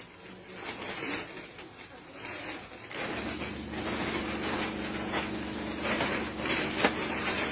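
An engine running at a steady pace, its low hum setting in abruptly about three seconds in; before that only faint rustling.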